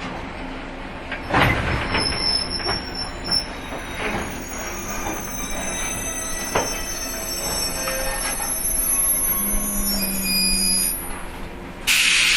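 JR 115-series electric train slowing down, with several high-pitched squeals from its wheels and brakes that sink slightly in pitch, and a few knocks from the running gear. A sudden loud hiss breaks in right at the end.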